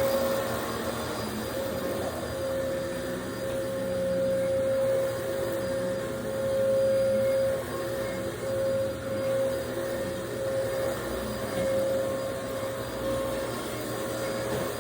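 Household vacuum cleaner running with a steady motor whine, its loudness swelling and dipping as it is pushed back and forth over the floor.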